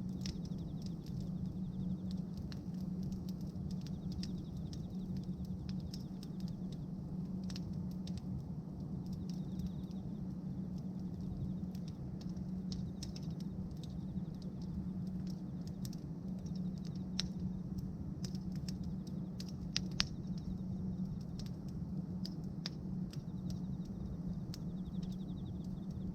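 Bonfire of pruned tree branches crackling, with frequent small sharp pops over a steady low rumble; one louder pop about twenty seconds in.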